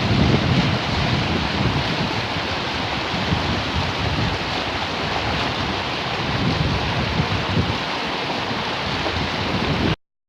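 Heavy rain pouring steadily, with a low gusty rumble underneath; the sound cuts off suddenly near the end.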